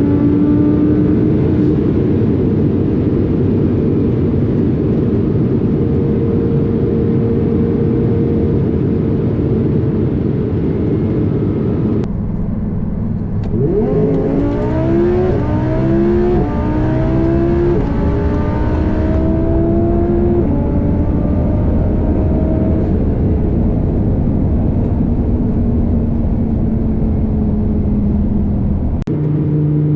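Twin-turbo Audi R8 V10 engine running hard at high speed. About halfway through it pulls up through quickly rising revs with several fast upshifts, then settles into a steady run.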